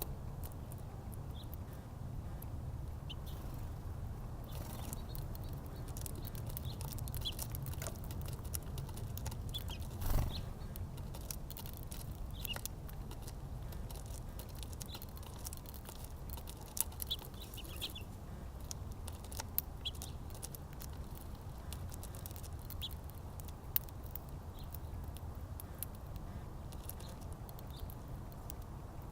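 Small birds at a backyard feeder: scattered short, high chirps and light clicks, with a thump about ten seconds in, over a steady low rumble.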